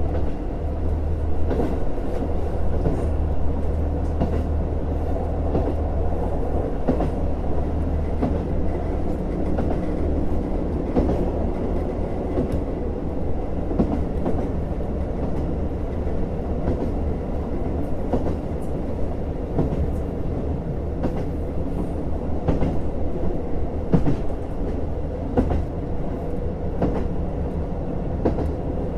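JR Hokkaido KiHa 150 series diesel railcar running along the line: a steady low diesel engine hum, with frequent sharp clicks from the wheels over rail joints.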